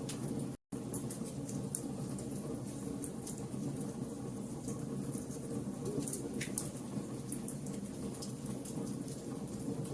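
Fire burning with a steady low rumble and frequent small crackles and pops. Just over half a second in, the sound cuts out completely for an instant.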